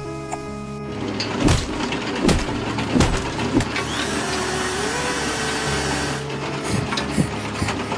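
A steady rushing noise with several sharp knocks through it, over background music with held low notes; the noise stops about six seconds in.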